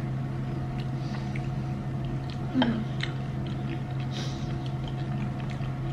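Close-mic chewing and small wet mouth noises of people eating sushi, with scattered light clicks and a brief murmured sound about two and a half seconds in, over a steady low hum.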